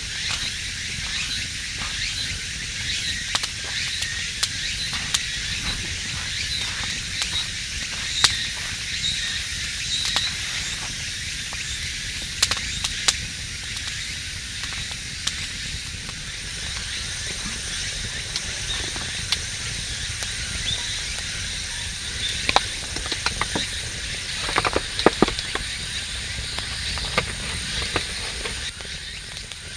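Campfire crackling: a steady hiss with many irregular sharp pops and snaps, a cluster of louder pops about three-quarters of the way through.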